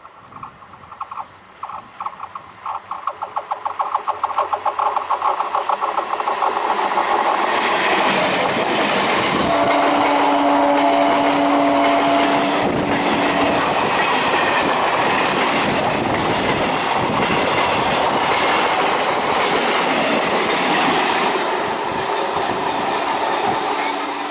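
EMU electric local train approaching and passing close at speed: its wheels click over the rail joints, quickening and growing louder, then give way to a loud steady rumble as the coaches rush past. A steady tone sounds for about four seconds midway through the pass.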